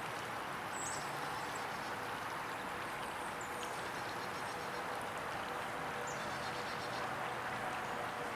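Steady, even hum of distant highway traffic, with a few faint high chirps from small birds.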